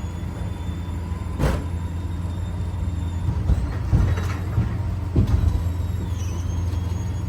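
A vehicle engine idling with a steady low hum, broken by three sharp knocks, about one and a half, four and five seconds in.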